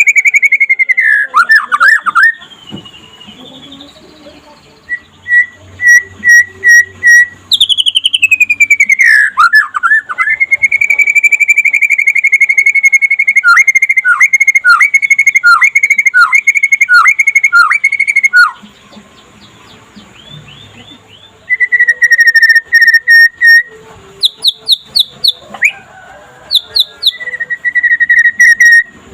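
Young white-rumped shama (murai batu) singing loud, clear whistled phrases. It holds long notes broken by quick dips, slides down in pitch, and runs quick series of short repeated notes, with a pause of a few seconds past the middle.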